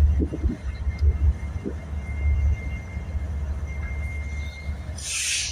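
Freight train with a lash-up of eight diesel locomotives going by: a deep, steady rumble, with a faint steady high whine over it and a short burst of hiss near the end.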